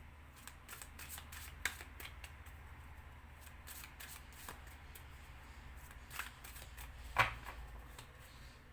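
Tarot cards being handled: scattered light clicks and taps as cards are picked up and laid down, with two sharper snaps, about a second and a half in and near the end.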